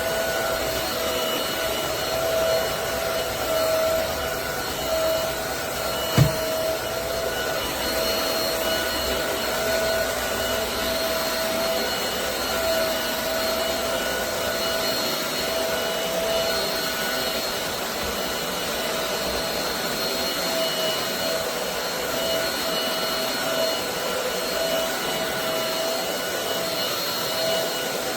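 Roborock Dyad Pro wet-and-dry cordless floor vacuum running steadily in max mode: a steady whine over a rushing hiss, with a single sharp knock about six seconds in.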